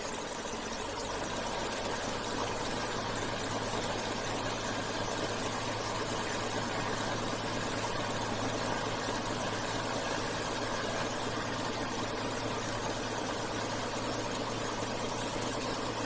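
Beechcraft A36 Bonanza's single piston engine and propeller running steadily at low power while taxiing, heard from inside the cockpit as an even drone with a low hum.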